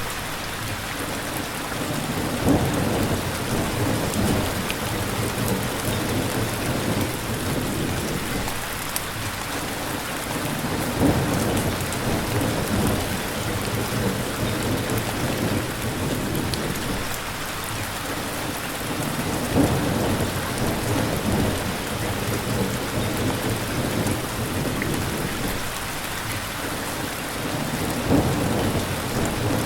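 Steady rain falling in a thunderstorm, with low rolls of thunder swelling up about every eight or nine seconds.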